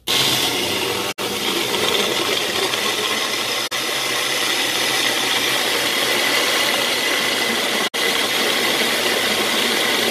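Electric kitchen blender running at speed, blending fruit and oats, with a loud steady whir that starts abruptly and stops for an instant three times.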